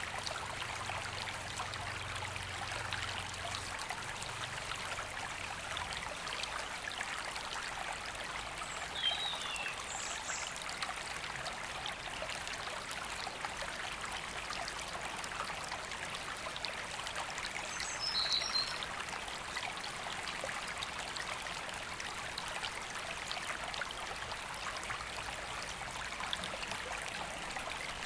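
River water flowing steadily, an even rushing with no let-up. A few short, high bird chirps come through it about a third of the way in and again about two-thirds in.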